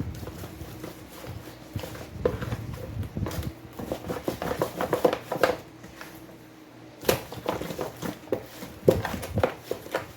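Kitchen work sounds: irregular knocks, clicks and scraping of utensils against a bowl or pan while food is handled.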